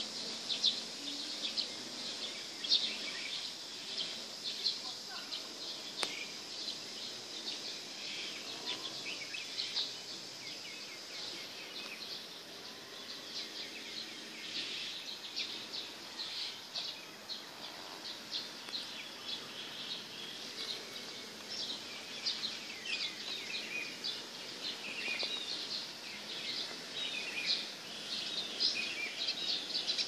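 Many small birds chirping and twittering at once, a dense stream of short high chirps with some quick sliding notes, growing busier in the second half.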